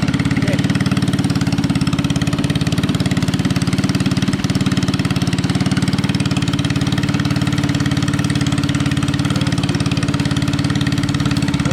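Honda GX160 5.5 hp single-cylinder four-stroke engine on a mini bike running steadily, with no revving.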